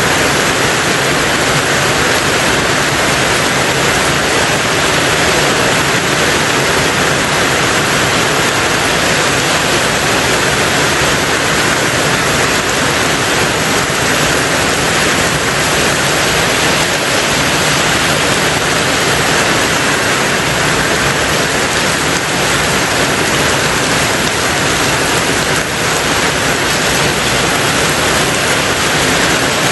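Steady, heavy rain drumming on a tin roof, a dense even hiss of drops without distinct individual hits.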